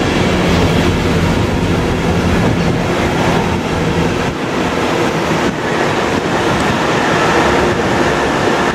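A loco-hauled passenger train's coaches and driving van trailer rolling past on the rails, with steady wheel and rail noise and some clickety-clack over the joints. A low hum under it fades about halfway through as the rear of the train goes by.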